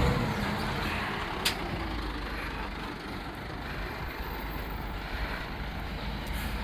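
Rubbish truck's engine running as it pulls away, its rumble fading over the first few seconds, with a single sharp click about a second and a half in.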